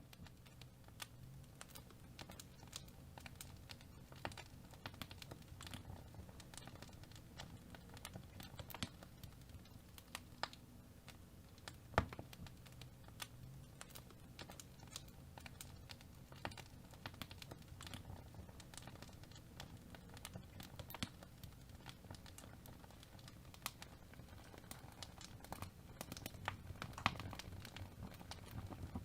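Fire burning in a fireplace, crackling steadily with many small snaps and one loud pop about twelve seconds in, over a low rumble of flame.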